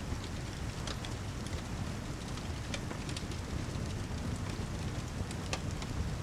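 Steady heavy rain with a low rumble underneath, mixed with a fireplace whose sharp pops and crackles come at irregular moments.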